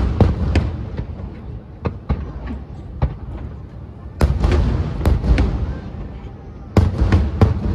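Aerial fireworks shells bursting: sharp bangs in three quick clusters, at the start, about four seconds in and about seven seconds in, with single cracks between and a low rolling rumble underneath.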